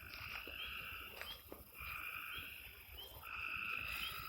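Frogs calling at night: long trilled calls, each about a second long, repeating several times, with small short chirps above them.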